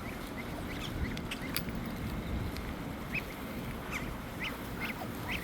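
Birds being fed give short high chirps or peeps, a handful of them in the second half, over a steady low rumble.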